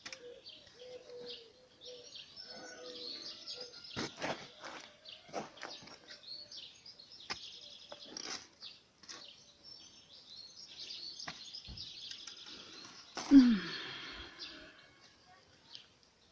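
Small birds chirping and twittering, with a low repeated cooing early on and a few sharp knocks. About 13 seconds in, one short loud sound falls in pitch and is the loudest thing heard.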